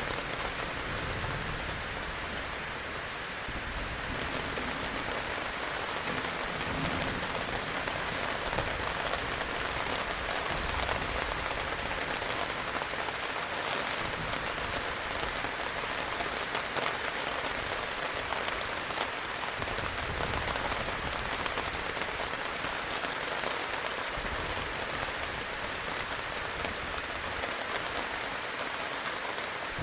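Heavy rain falling steadily, an even hiss of many drops with no breaks.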